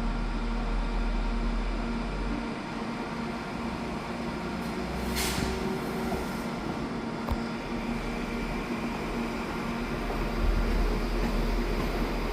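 Train running with a steady mechanical hum and low rumble, with a short hiss of air about five seconds in and a single click a couple of seconds later.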